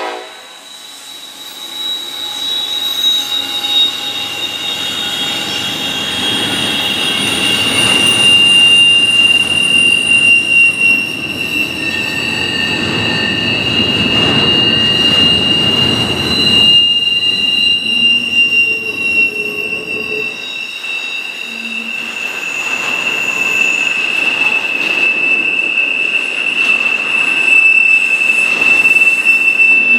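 Freight train rolling past, its steel wheels squealing on the rails in a steady high-pitched squeal over the rumble of the cars.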